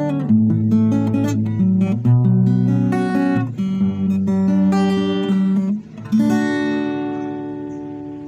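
Acoustic guitar with D'Addario strings played through a short run of notes and chords, ending on a strummed chord about six seconds in that rings out and slowly fades.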